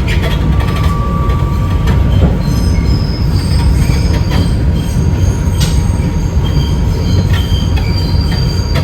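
New York City subway 5 train running, a loud steady low rumble of wheels on rail. Thin high-pitched wheel squeals start about two and a half seconds in and come and go.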